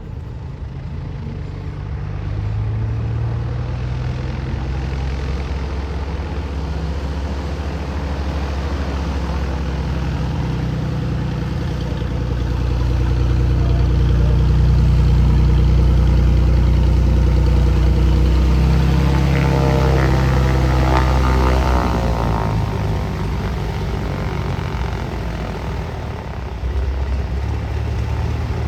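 Single-engine piston propeller airplane running with a steady drone that grows louder to a peak about halfway. The tone swirls as the plane passes about two thirds of the way through, then eases off.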